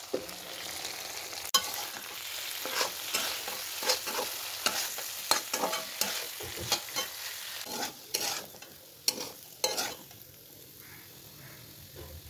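Sweet potato slices sizzling in oil in a wok, with a stainless steel spatula scraping and knocking against the pan in quick irregular strokes as they are stirred. The stirring stops about ten seconds in, leaving a quieter sizzle.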